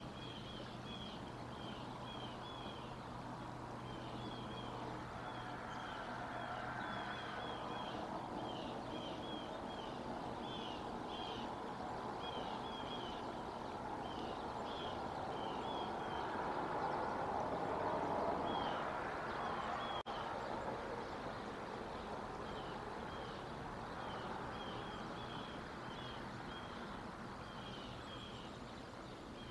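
Birds chirping repeatedly outdoors, short high chirps coming in quick runs throughout. Under them is a steady rushing background that swells past the middle and fades again.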